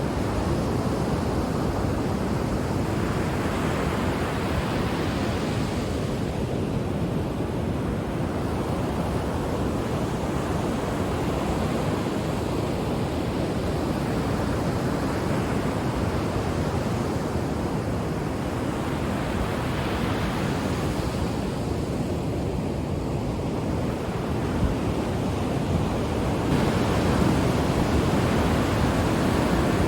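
Ocean waves washing onto a shore: a steady rush of surf with several swells as waves break, growing louder near the end.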